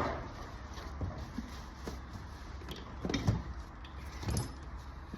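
Tools being handled, giving scattered light knocks and clicks, the most distinct about three and four seconds in, over a low steady hum.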